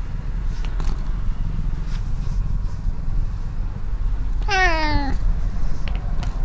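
A domestic cat gives one short meow that falls in pitch, about four and a half seconds in, over a steady low rumble.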